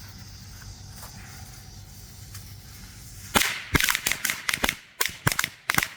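A string of Red Hot 16s firecrackers going off: a quick, uneven run of about a dozen sharp bangs beginning about halfway through, after a few seconds of quiet.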